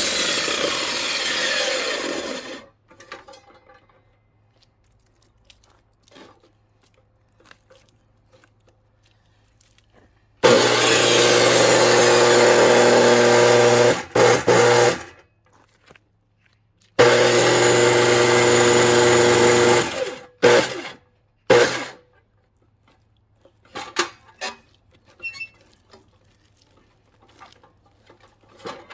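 Electric circular saw cutting into a log in bursts: it runs briefly and stops about two and a half seconds in, then runs again for two long cuts in the middle and is switched on twice more briefly. Small knocks of wood being handled come between the cuts.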